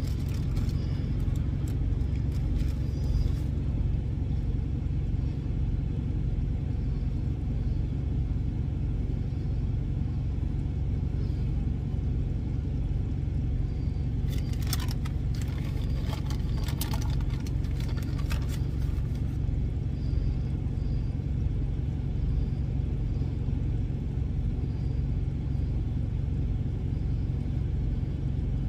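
Steady low rumble of an idling truck engine. A short run of clicks and scrapes comes about halfway through.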